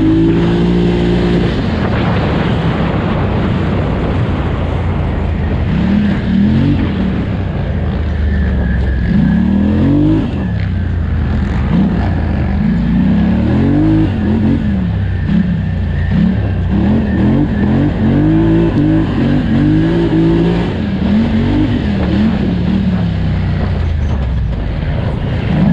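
Polaris Scrambler 1000 XP ATV's twin-cylinder engine at racing speed, revving up and down over and over as the throttle is worked hard, over a steady rush of noise.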